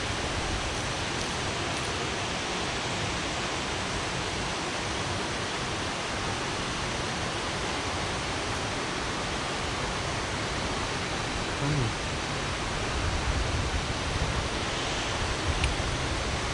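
Steady rushing of waterfall water, an even hiss that does not change. A brief low knock comes about twelve seconds in, and some uneven low rumbling follows near the end.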